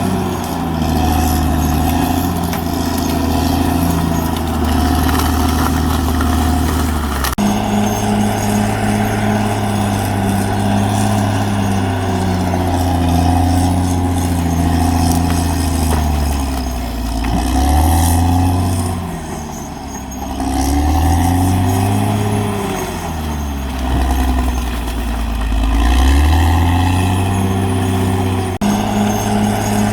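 Caterpillar D6R XL bulldozer's diesel engine running loudly. Its pitch sags and climbs back up several times in the second half as it takes load and recovers. The note changes abruptly twice, about 7 seconds in and near the end.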